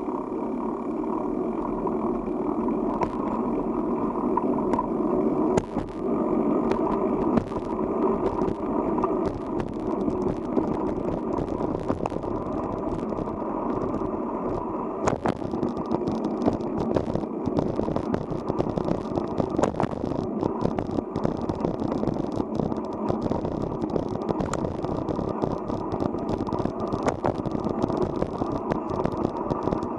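Steady riding noise from a bicycle on the move, with tyre and wind rush and frequent sharp clicks and rattles.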